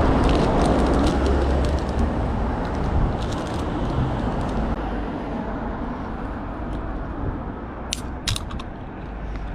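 Wind buffeting the microphone over the steady rolling rumble of a bicycle being ridden, with two sharp clicks about eight seconds in.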